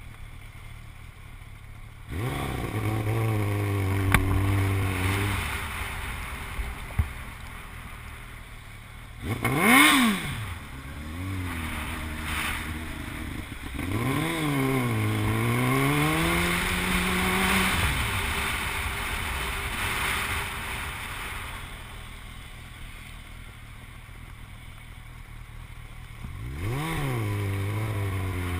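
Motorcycle engine on the move, revving up and easing off several times, with the sharpest and loudest rev about a third of the way in. A steady hiss runs underneath.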